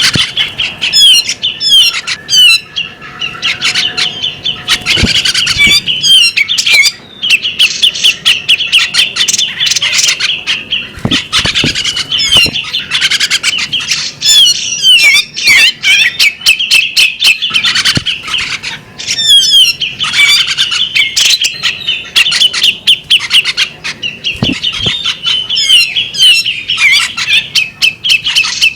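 Female magpie-robin singing a long, loud song of rapid chattering notes mixed with quick sweeping whistles, broken only by short pauses about seven and nineteen seconds in.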